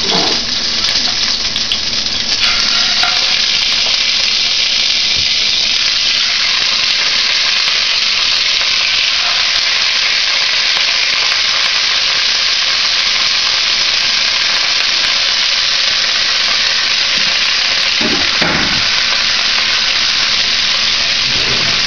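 Chicken legs frying in olive oil in a hammered pan, a loud steady sizzle that grows a little louder about two seconds in; the grease is up too high.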